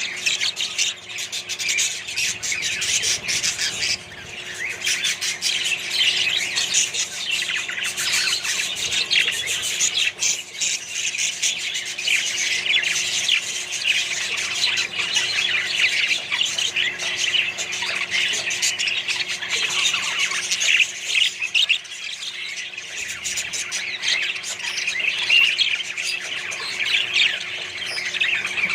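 A colony of budgerigars and other parrots chattering and squawking without pause, many calls overlapping.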